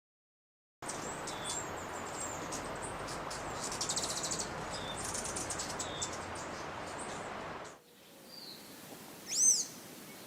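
Blue-gray tanager calling: a quick run of thin, high, squeaky chirps over a steady background hiss that cuts off abruptly about eight seconds in, then a single louder high arched note near the end.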